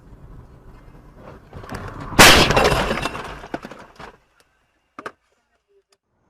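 A vehicle collision: a sudden loud impact about two seconds in, with glass breaking and crackling that fades over about two seconds. Two short clicks follow near five seconds, then the sound cuts out.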